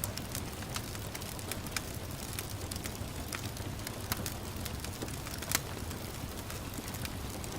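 Wood fire crackling with irregular sharp pops, one louder pop about five and a half seconds in, over a steady hiss of gentle rain.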